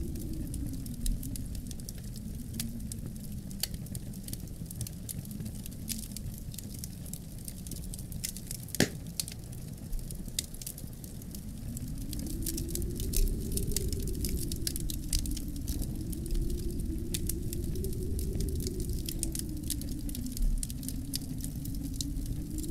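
Wood fire crackling in a fireplace, with many small snaps and one sharper pop about nine seconds in. Under it, low snowstorm wind rises and falls, swelling again from about twelve seconds on.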